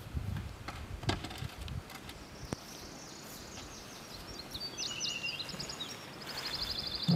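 A songbird singing: a string of high chirps and quick note patterns that ends in a fast, even trill near the end. In the first couple of seconds there are a few low bumps and sharp clicks.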